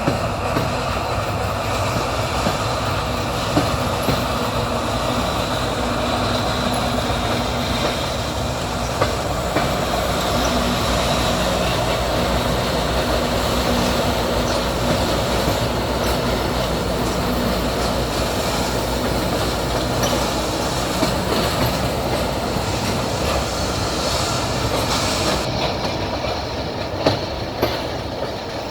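Train wheels running on the track, heard from aboard a moving train: a steady rolling rumble with wheels clicking over rail joints every few seconds.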